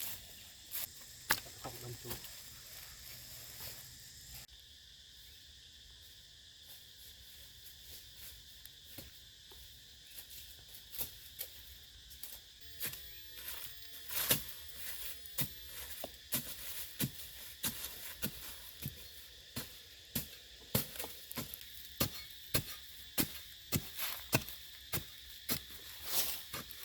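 Steady high drone of insects, with a run of short sharp taps or knocks that come about one or two a second in the second half.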